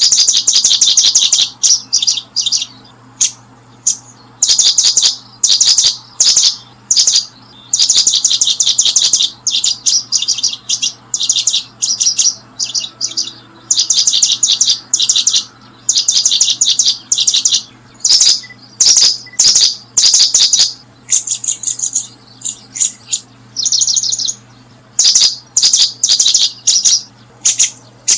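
Birds chirping in a long run of high, fast-repeated notes, each burst lasting about half a second to a second, one after another with short gaps.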